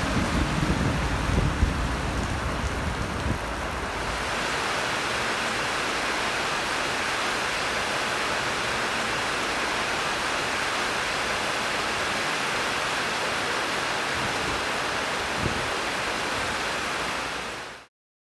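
Steady heavy rain falling, an even hiss with no pauses. A low rumble is mixed in for the first few seconds, and the sound cuts off abruptly near the end.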